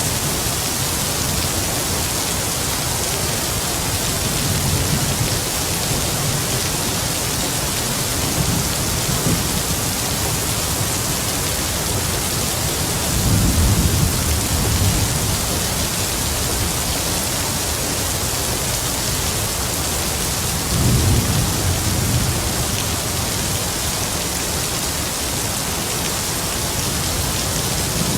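Heavy rain falling in a steady hiss, with distant thunder rumbling low underneath. The two clearest rolls of thunder come about halfway through and again about three quarters of the way in.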